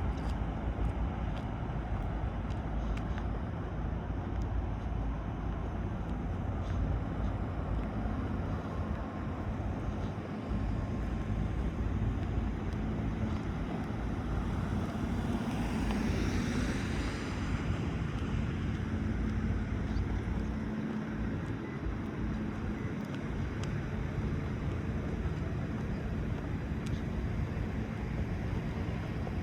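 Outdoor ambience: a steady low rumble with a faint steady hum, and a passing sound that swells and fades about halfway through.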